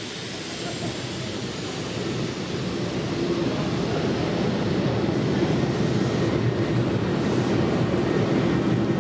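Hanshin 8000 series electric train pulling out of the station: wheels and traction motors running with a steady hum that grows louder.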